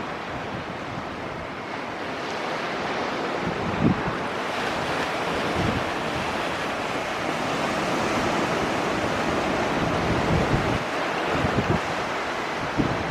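Wind buffeting the microphone, with irregular low thumps, over a steady rushing noise that swells gently through the middle and eases near the end.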